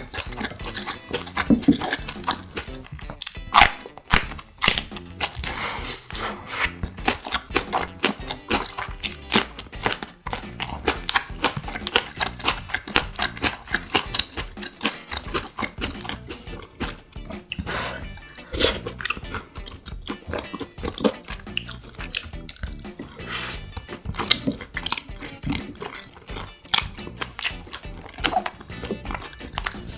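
Close-miked chewing and biting of marinated grilled duck, with wet mouth sounds and a steady run of crisp, irregular clicks and crunches.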